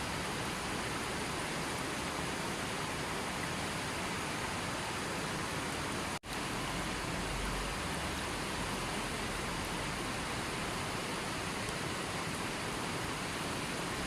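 Steady, even rushing noise of falling or flowing water, with no birds or other distinct sounds over it. About six seconds in it cuts out for a split second and fades straight back, like a join in a looped recording.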